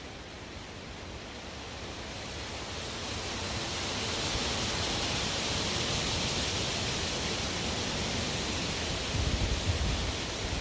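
Strong wind blowing as an even rushing noise. A gust swells over the first few seconds, holds, then eases, with low rumbling buffets near the end.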